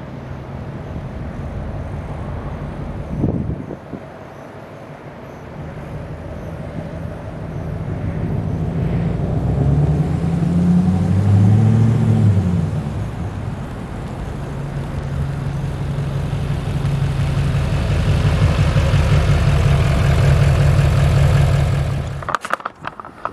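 Emissions-deleted 6.6 L Duramax V8 turbodiesel pickup driving past. Its engine note swells and rises, then falls as the truck passes about halfway through, then runs steadily and loudly until it cuts off suddenly near the end.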